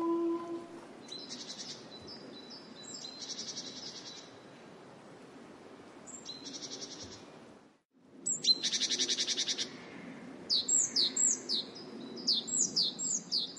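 Small songbirds calling: several short high trills, then a quick run of falling notes near the end, over a low steady outdoor background. The end of a wolf howl fades out in the first moment.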